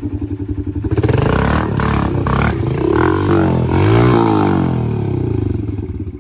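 Dirt bike engine idling with a steady pulse, then revved hard several times, its pitch rising and falling, before settling back to idle near the end.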